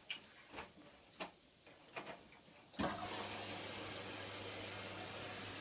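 Hotpoint washing machine starting its cycle: a few faint clicks, then about three seconds in its water inlet valve opens and water starts rushing in steadily, with a constant low hum.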